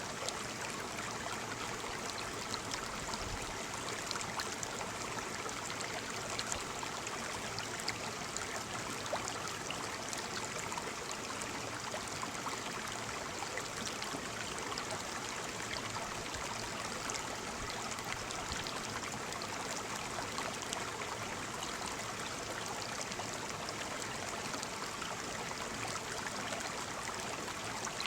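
Waterfall water falling and splashing steadily, with fine spatters of droplets over an even rush.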